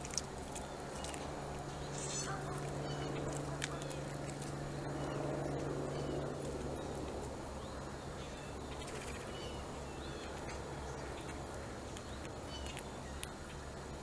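Short, scattered bird chirps and calls over a steady low hum, with a few sharp clicks.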